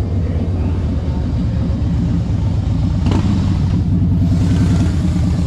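Harley-Davidson V-twin motorcycle engine running under way, a loud, rapidly pulsing rumble. A brief sharp knock comes about three seconds in, and wind hiss rises near the end.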